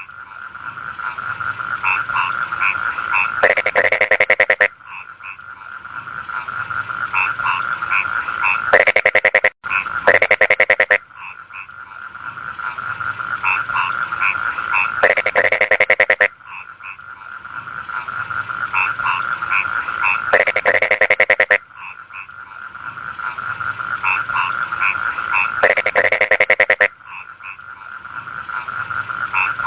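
Rice-field frogs croaking in a chorus. Short repeated notes run under a steady high drone, and a loud, rapid pulsed croak bursts out about every five seconds.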